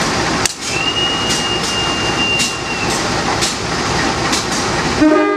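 Train passing at speed: a loud rush of wheel and rail noise with sharp clacks as the wheels cross rail joints, and a high steady whine for about two seconds. Music starts near the end.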